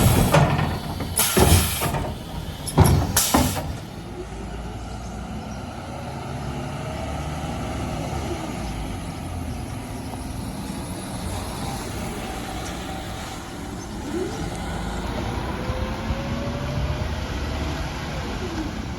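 Mercedes Econic refuse truck: three loud bursts of noise in the first few seconds, then its engine running steadily, with a faint whine that slowly rises in pitch twice.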